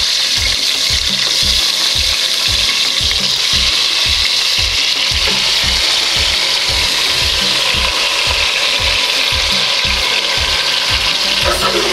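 Chopped tomatoes, onions and vegetables sizzling in hot cooking oil in a pot, a steady loud hiss, with a regular low knocking about four times a second underneath.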